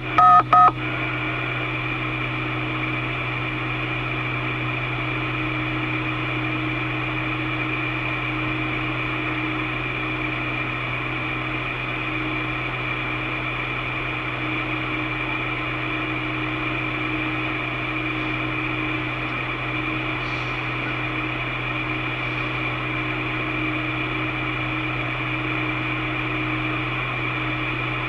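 Open two-way radio channel: a steady hiss with a constant hum and a faint high whine. A few short, loud beeps of signalling tones sound in the first second.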